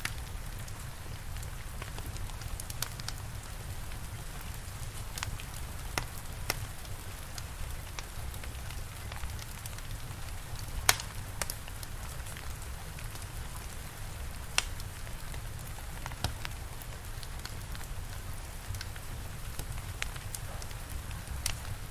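Steady rain with a low rumble, and a wood fire crackling over it in sharp, irregular pops every second or so. The loudest pop comes about halfway through.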